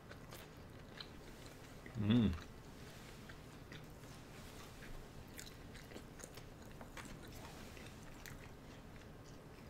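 Faint eating sounds of a sushi meal: soft chewing and small wet mouth clicks scattered throughout, with one brief voiced hum about two seconds in.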